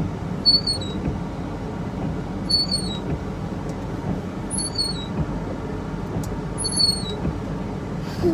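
Car windshield wipers sweeping the glass after a washer spray, giving a short squeak on each sweep about every two seconds, over the steady low hum of the idling car.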